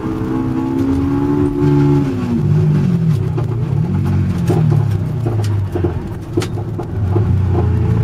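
Honda S2000's engine, heard from inside the car: the revs hold high, fall away about two seconds in, rise and fall twice more, then settle into a low steady rumble with irregular clicks and knocks.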